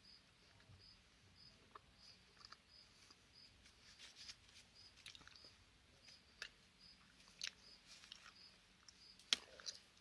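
Near silence with a faint high chirp repeating about twice a second and scattered soft clicks, one sharper click near the end.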